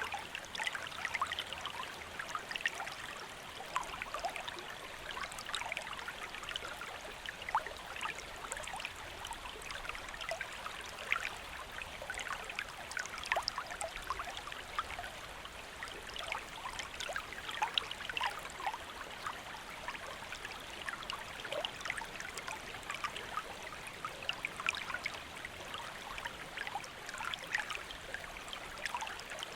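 Stream flowing steadily: an unbroken babble of running water with many small splashes and gurgles throughout.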